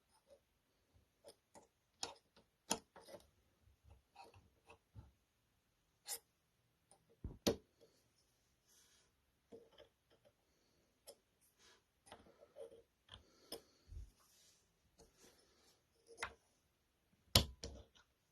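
Small steel parts of a Norinco M-77B pistol being handled during firing-pin disassembly: scattered metallic clicks and taps, with two heavier knocks, one about seven seconds in and the louder one near the end.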